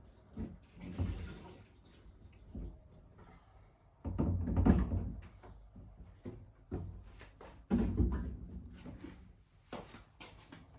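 Irregular knocks and clunks of tools and parts being handled, with two louder clattering stretches about four and eight seconds in and a few sharp clicks near the end.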